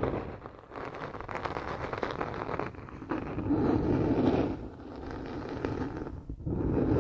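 Close-miked crackling, rustling and scraping, swelling and fading in slow waves a few seconds apart.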